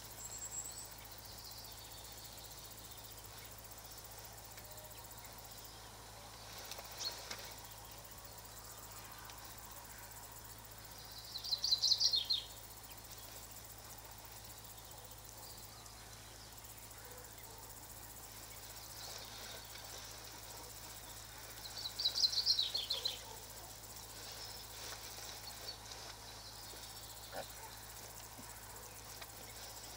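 A small bird singing twice, about ten seconds apart, each time a quick trill of high notes falling in pitch, with a few fainter calls between, over a faint steady hiss.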